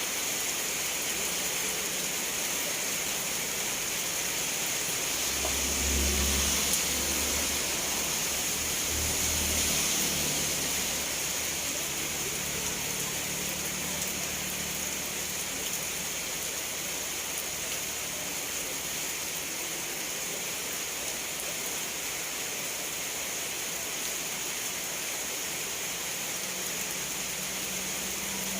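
Steady rain falling, an even hiss, with two brief low rumbles rising under it about 6 and 10 seconds in.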